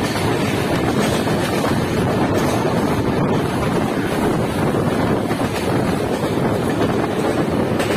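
Passenger train running at speed, a steady roar of wheels on rails mixed with wind buffeting the microphone held out at the coach side.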